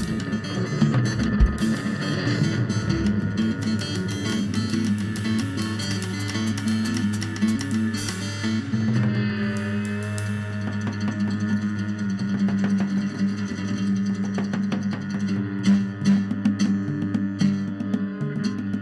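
Rock band playing an instrumental passage live: electric and acoustic guitars over drum kit and upright bass, with no vocals. Cymbal strokes are dense through the first half and thin out after about eight seconds, leaving guitar and bass.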